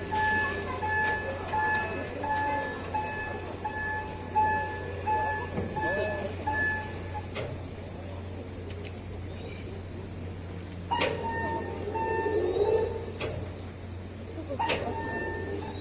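A repeating electronic bell or chime, about two rings a second, that stops about seven seconds in; a similar tone sounds twice more briefly later, over a steady low hum.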